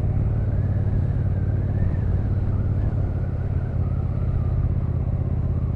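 Motorcycle engine running at a steady, even pitch while riding, with road and wind noise.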